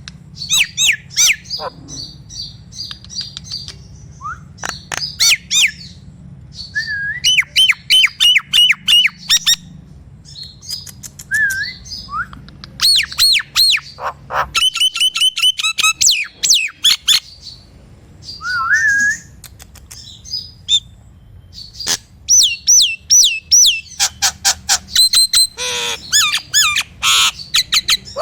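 A jalak nias starling calling loudly: bursts of rapid sharp clicking notes, squawks and slurred rising whistles, repeated in quick runs with short pauses between them.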